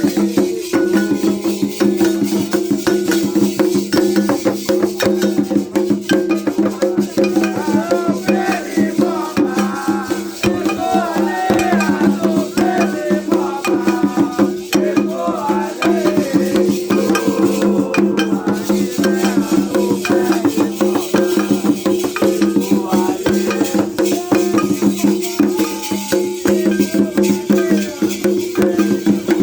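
Music with rattles shaking a fast, dense beat and other hand percussion, over a steady low drone, with voices singing through the middle stretch.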